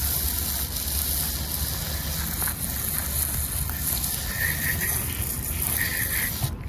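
Steady hiss of spraying water that cuts off suddenly near the end.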